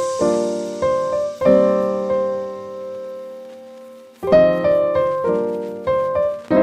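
Background piano music: chords struck a few times, each ringing out and slowly fading, with a longer decaying pause in the middle.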